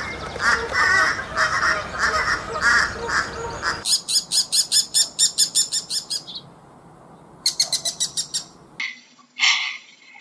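Bird calls in short clips spliced back to back, each a run of quick, evenly repeated calls; the sound changes abruptly about four seconds in and again near the end, where a different bird's calls begin.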